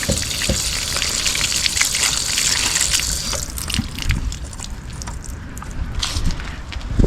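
Wind gusting over the microphone, with a strong hiss and a low rumble for about the first three seconds, easing after that while scattered knocks and clicks come through.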